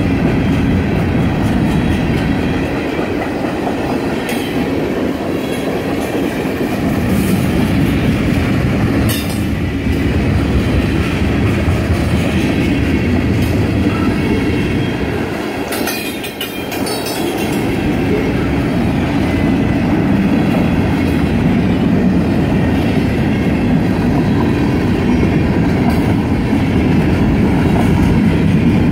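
Freight cars rolling past: a steady rumble with the clickety-clack of steel wheels over the rail joints. There are a couple of sharper knocks, about nine seconds in and again around sixteen seconds.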